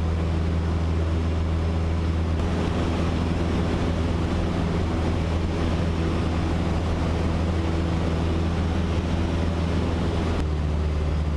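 Cessna 152's four-cylinder Lycoming engine and propeller droning steadily in cruise, heard inside the cabin, with a layer of extra hiss that comes in about two seconds in and cuts off near the end.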